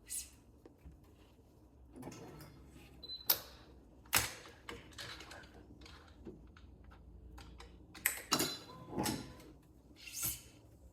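Scattered clicks, knocks and scraping from working on a badminton racquet on a stringing setup, with a sharp click about three seconds in and a cluster of louder knocks and scrapes around eight to nine seconds in.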